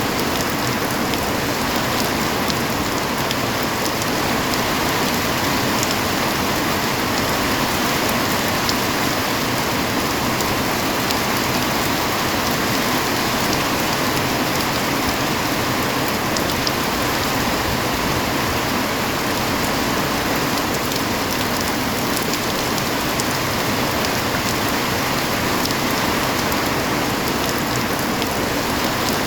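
Heavy rain falling steadily, an even rushing hiss with scattered drop ticks.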